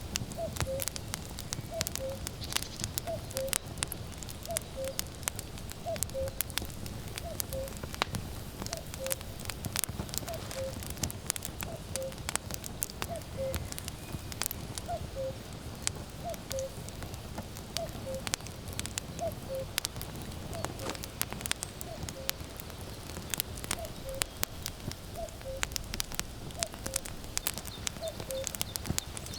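Firewood burning in a campfire, crackling with frequent sharp pops over a low steady rush. Over it a common cuckoo calls its two-note falling 'cuck-oo' again and again, about once every second and a half.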